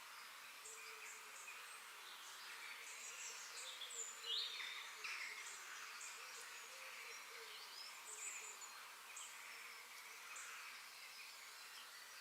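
Wild birds chirping and calling over a steady background hiss of ambient nature noise, with a louder sweeping call about four seconds in.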